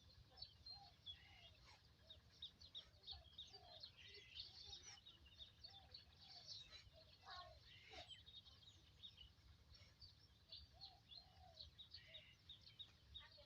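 Faint birds chirping, many short high calls one after another, over a low background rumble.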